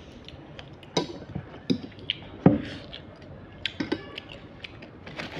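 Close-up eating of a seafood salad: irregular sharp clicks and knocks of utensils and shells against a dish, about half a dozen, with soft wet mouth sounds between them.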